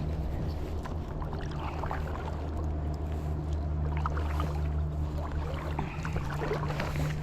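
Kayak moving through the water while trolling a lure: water splashing and trickling along the hull about every two seconds, over a steady low hum.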